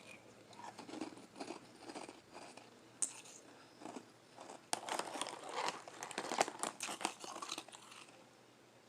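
Close-up chewing and biting of frozen lime ice, soft crunches scattered at first, then a dense run of crunching from about five to eight seconds in.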